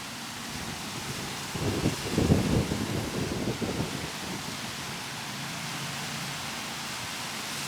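Steady hiss, with about two seconds of low rustling and bumping handling noise a couple of seconds in.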